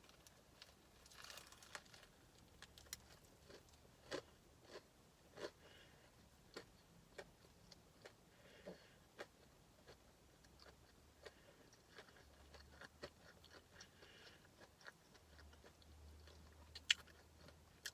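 A person biting into and chewing a spicy fried chicken sandwich: faint, scattered crunches and mouth clicks, with one sharper crunch near the end.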